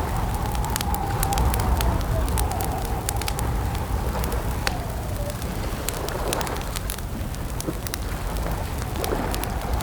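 Campfire crackling with scattered sharp pops over a steady low rumble. A long, wavering tone runs alongside it and dips in pitch about five seconds in.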